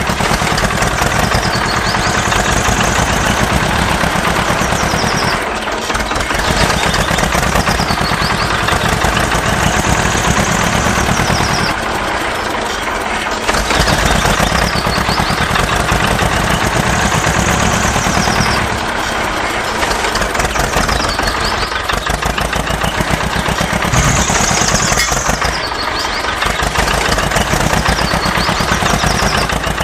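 Tractor diesel engine running with a fast, steady knocking chug, repeating in a loop every few seconds.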